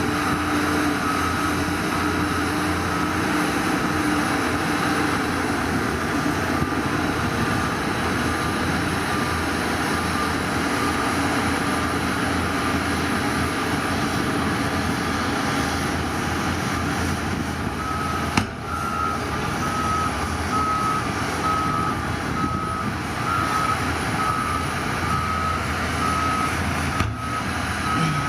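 Heavy diesel earthmoving machinery running steadily, with a reversing alarm beeping in an even series of short tones, loudest from about two-thirds of the way in. Two brief sharp clicks come partway through.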